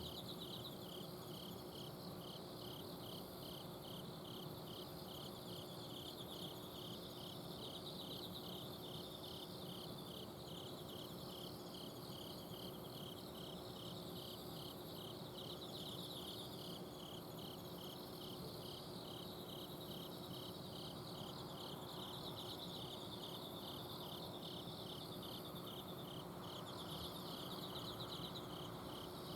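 Night chorus of autumn insects: a cricket chirping steadily, about two chirps a second, over softer continuous trills, with the steady hum of an air conditioner's outdoor unit underneath.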